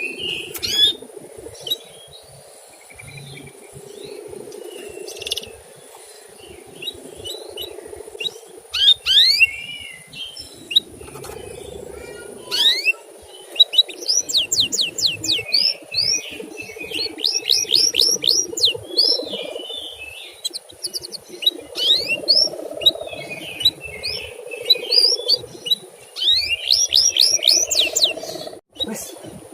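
Male domestic canary singing: rapid series of sharp chirps and trills, in quick runs that get denser and fuller about halfway through, over a steady low hum.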